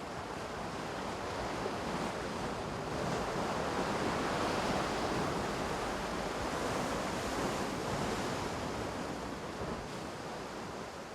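Ocean waves breaking as a steady wash of surf that swells through the middle and eases off near the end.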